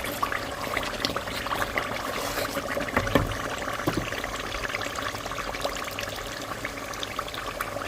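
Pepper and tomato sauce frying in palm oil in a pot: a steady sizzle with many small crackles. There are two louder knocks around the middle.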